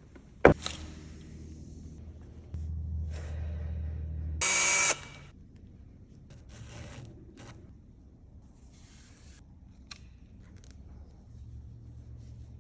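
Workshop power-tool sounds: a sharp knock about half a second in, then a low hum and a brief loud whir of a power tool about four and a half seconds in, followed by faint scattered clicks.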